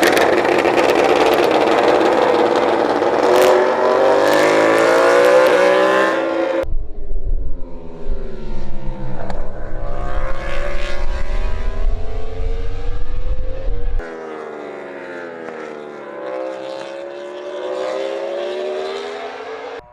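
Loud racing engine at high revs in three separate shots, its pitch climbing and falling as it accelerates and changes gear, with abrupt cuts about six and a half and fourteen seconds in.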